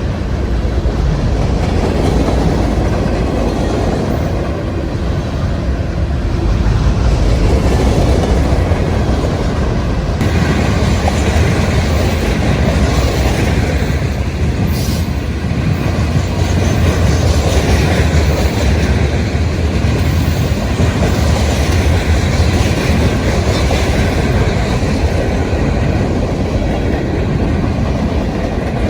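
Norfolk Southern freight train rolling past at close range: a steady heavy rumble of rail cars with wheels clacking over the rail joints, and a brief high wheel squeal about halfway through.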